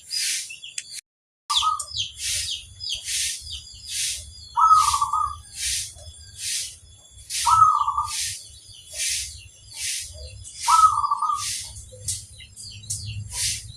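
Zebra dove (perkutut) cooing its short trilled phrase four times, about every three seconds, over a steady run of sharp high chirps about two a second. The sound drops out briefly about a second in.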